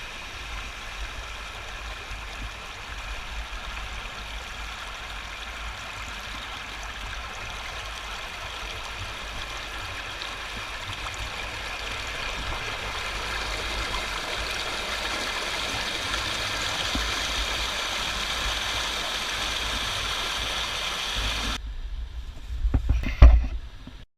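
Creek water rushing steadily, growing louder for most of the stretch, over a low rumble of wind or handling on the camera mic. It cuts off suddenly about three seconds before the end, followed by a couple of loud knocks on the camera.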